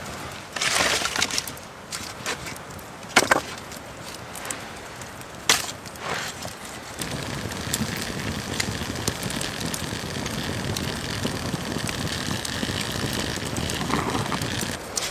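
A few sharp knocks or snaps, one cluster and then three single ones. From about seven seconds in, a steady hiss takes over.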